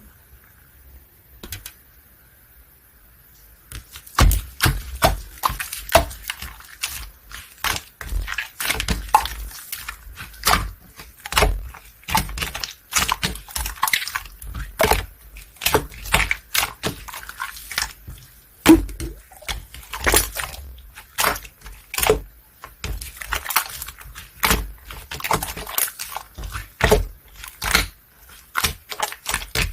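Bubblegum-textured slime being squished and stretched by hand, making irregular sticky clicks and pops of trapped air, several a second, beginning about four seconds in.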